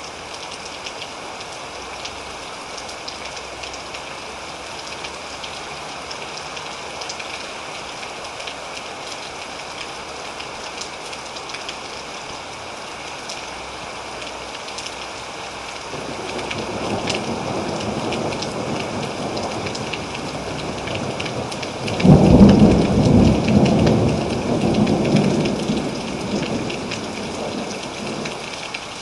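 Steady heavy rain with a roll of thunder. Distant thunder rumbles up about halfway through, then a louder crack of thunder breaks about three-quarters of the way in and rolls away over several seconds.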